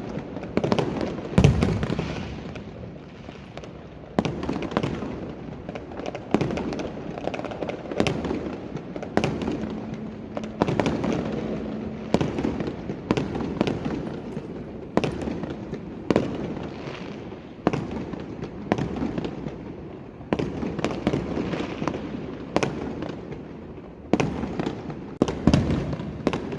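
Fireworks going off in quick, irregular succession: sharp bangs every second or so over a continuous rumble of more distant explosions.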